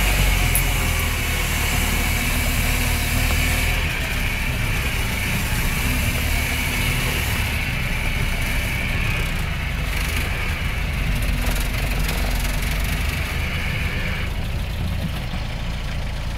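Land Rover Series III 109 petrol engine running steadily, heard from inside the cab as a low rumble, with a steady high whine that stops near the end.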